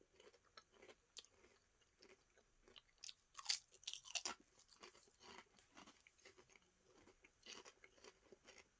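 Faint crunching of thick crinkle-cut potato crisps being chewed, in irregular crunches with a louder cluster about three to four seconds in.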